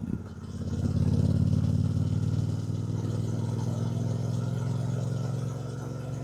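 Triumph Bonneville T120's 1200 cc parallel-twin engine under way, pulling strongly after a brief dip just at the start, then settling to a slightly softer steady run about two and a half seconds in.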